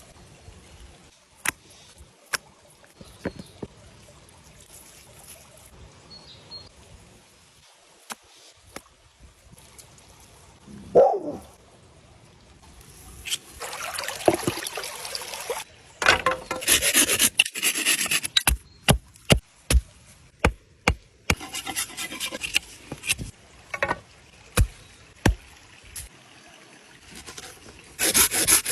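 Knife work: cutting and scraping strokes, with scattered clicks and a quick run of sharp knocks, about two a second, a little past the middle.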